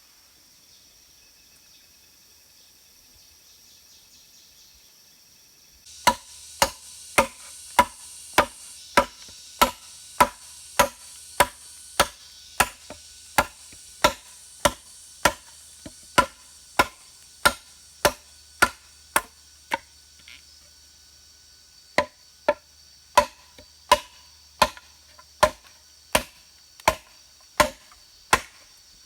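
Steady chopping, sharp strikes about two a second, with a break of about two seconds after the middle. For the first few seconds before the chopping starts there is only faint insect chirring.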